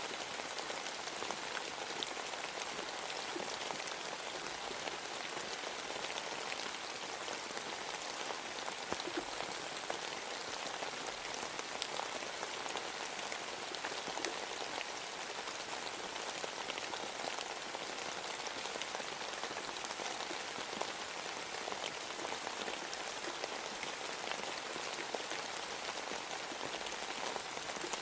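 Steady rain: an even hiss with many small, separate drop ticks scattered through it.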